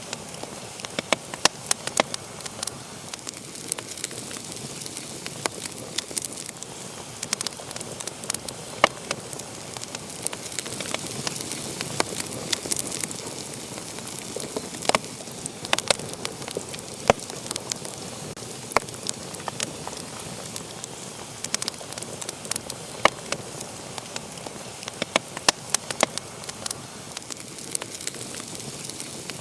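Wood fire burning in a fireplace, crackling with irregular sharp pops over a steady soft hiss.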